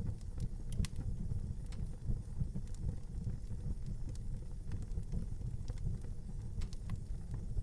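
Wood fire burning in an outdoor fireplace: a steady low rumble of flames with scattered sharp crackles and pops throughout.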